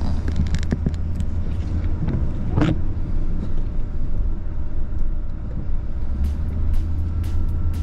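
Steady low rumble of road traffic, with a brief sharp noise a little under three seconds in and light clicks near the end.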